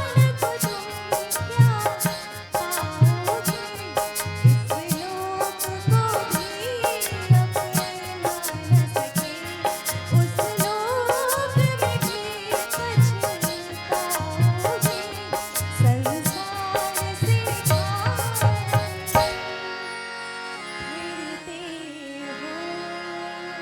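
A woman singing a Hindi film song over harmonium, with dholak and tabla keeping a steady beat. Near the end the drums stop suddenly, leaving a held harmonium chord under the voice's final note, slowly fading.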